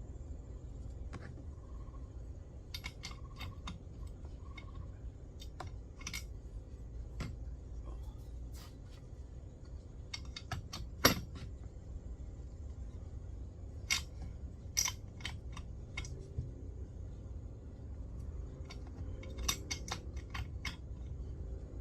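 Scattered metallic clicks, clinks and taps of hand tools and small chainsaw parts being handled during servicing, with one sharp knock about halfway through.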